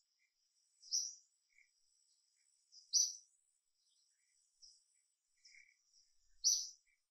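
A bird calling in the forest canopy: three loud short high chirps a couple of seconds apart, with fainter calls between them, over a faint steady high insect whine.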